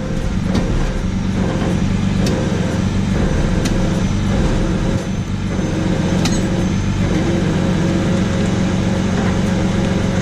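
Freightliner rollback tow truck's engine idling steadily, with a few faint clicks.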